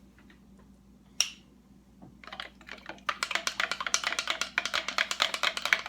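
A spoon stirring a mixture briskly, clicking rapidly against the side of its container. The stirring starts about two seconds in, after a single earlier click.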